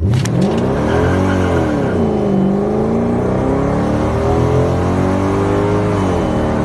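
Mercedes-Benz W211 E550's tuned 5.5-litre V8 at full throttle, launching hard: revs climb sharply, fall away through an upshift after about a second, then climb slowly through the next gear before another upshift near the end.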